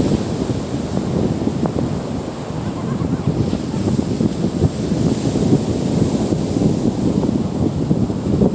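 Gulf of Mexico surf washing onto the beach, with wind buffeting the microphone in a steady, rumbling rush.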